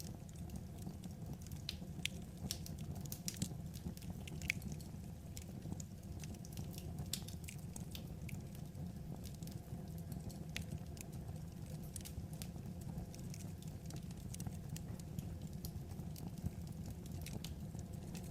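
Burning firewood crackling: frequent irregular sharp pops and snaps over a steady low rumble of the fire.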